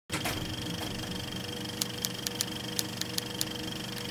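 A steady machine hum with a thin high whine; about halfway in, a run of about eight sharp clicks comes at uneven intervals.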